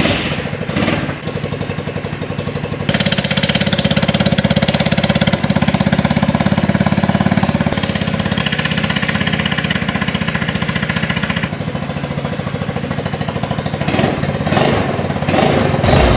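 Chinese engine in a Soviet Vyatka Electron scooter, running with an even pulsing note. It gets louder about three seconds in and eases off a little after about eleven seconds.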